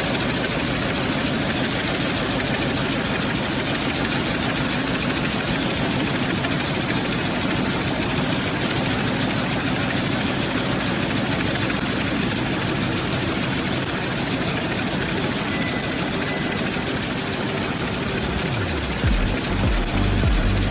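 Lässer Schiffli embroidery machine running steadily, a dense, even mechanical clatter. About 19 seconds in, music with a bass line comes in over it.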